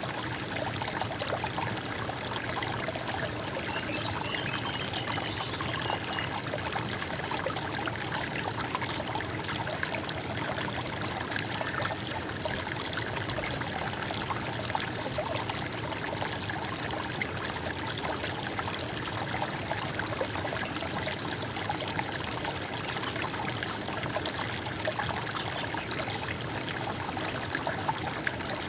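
Stream water running and trickling steadily over stones, an even rushing babble. A brief faint high chirping, likely a bird, comes about four seconds in.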